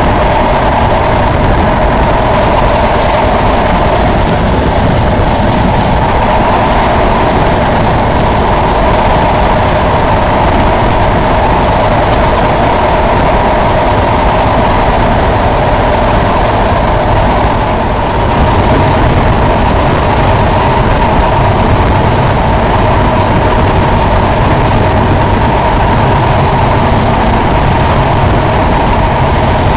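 Running noise of a passenger train at speed, heard from an open coach doorway: wheels on the rails and rushing air, loud and steady throughout.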